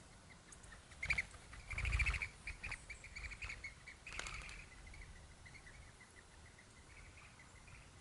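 Birds at a feeder: two brief flurries of wing flaps about one and two seconds in, followed by a run of short, quick chirps that fades away.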